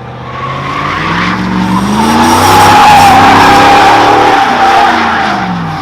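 A car's engine revving hard with its tires screeching as it spins around doing donuts. The sound builds, holds a steady tire squeal at its loudest around the middle, then fades away near the end.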